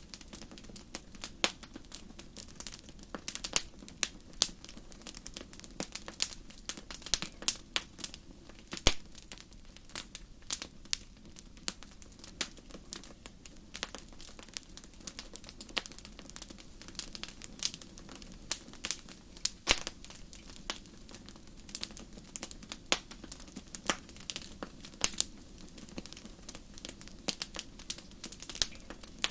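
Wood fire crackling: irregular sharp pops and snaps, several a second, over a low steady rush.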